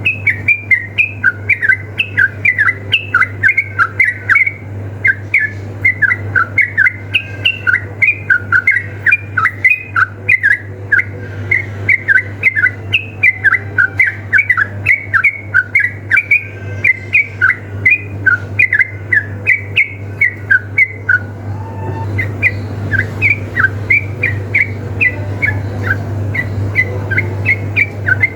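Yellow-vented bulbuls calling in a fight, a rapid, unbroken run of short chirping notes, with a short pause about 21 seconds in before they go on. A steady low hum runs underneath.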